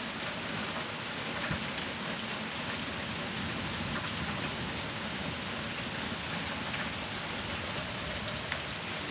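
Steady, easing rain falling with no wind, with a few sharper taps of single drops.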